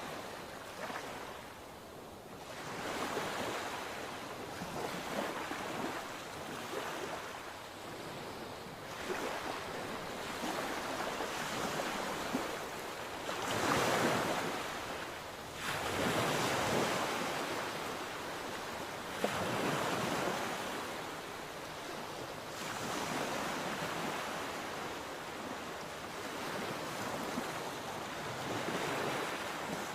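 Sea waves breaking and washing in, the surf swelling and ebbing every few seconds, with one larger wave about halfway through. Some wind noise on the microphone.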